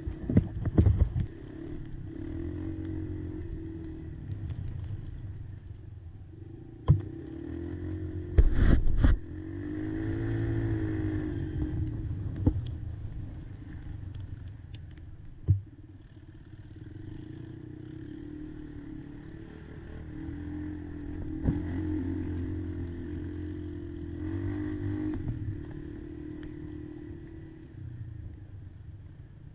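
Kymco Maxxer 300 quad's engine running over a rough trail, its pitch shifting with the throttle and rising and falling in one rev about ten seconds in. Several loud knocks and clattering cut through, the loudest about eight seconds in.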